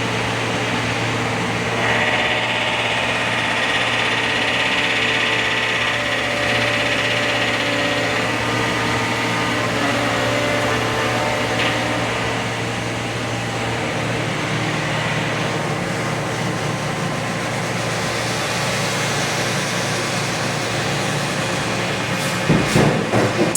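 Rexroth A10VO28 axial piston hydraulic pump running on a test rig under its main pressure test: a steady low hum with a high whine for several seconds near the start. The hum shifts in pitch about halfway, and a few sharp clanks come near the end.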